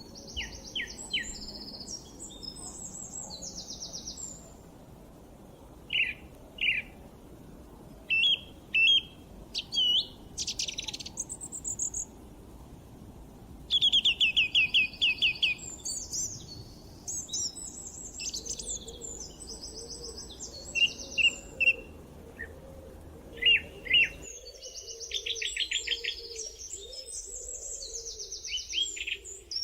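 Several wild songbirds singing and chirping in overlapping bursts of high trills, quick repeated notes and whistled glides. Under them a low steady background hiss cuts off abruptly about 24 seconds in.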